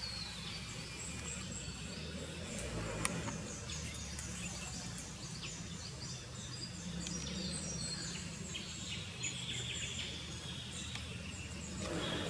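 Small birds calling: runs of quick, very high-pitched chirps over a low steady background hum.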